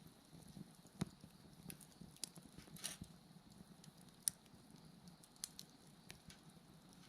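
Wood bonfire crackling: scattered sharp pops and snaps, the loudest about a second in and just past four seconds, over a faint low rustle of the flames.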